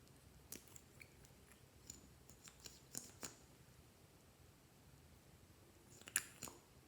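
Clear slime being worked by hand: faint scattered sticky clicks and pops, a loose run of them early on and a louder cluster of a few near the end.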